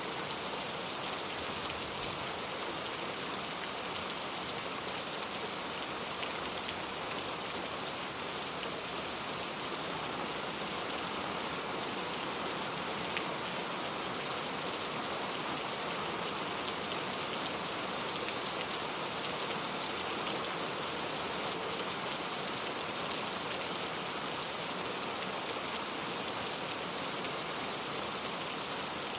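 Steady rainfall: an even, unbroken hiss of rain with a few single drops ticking out sharper now and then.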